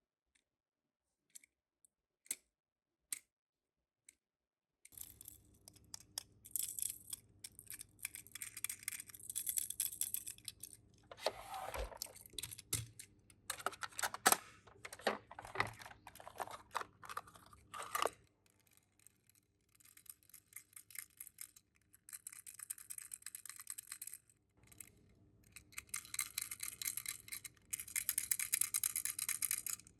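Toy minicar packaging being handled and opened: a few separate clicks, then from about five seconds in, irregular bursts of crinkling and tearing with small clicks and knocks.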